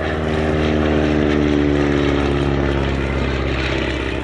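Propeller engine of a Focke-Wulf Stieglitz biplane flying past. It grows loudest about halfway through, then its note drops slightly in pitch as it moves away and fades.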